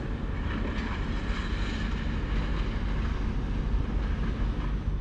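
ÖBB Railjet train running, a steady rumble and rush of wheels and air heard from inside the passenger coach.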